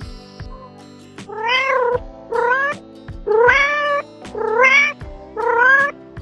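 Domestic cat meowing five times in quick succession, each meow under a second and rising then falling in pitch, over background music with a steady beat.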